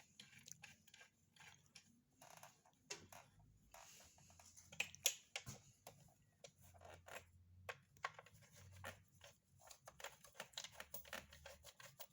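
Faint, irregular small clicks and rustling from handling, with one sharper click about five seconds in.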